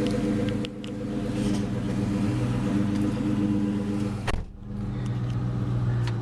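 2004 Ford SVT Cobra's supercharged 4.6-litre V8 idling steadily through a full aftermarket exhaust. A sharp click a little past four seconds in, with a brief drop in the sound.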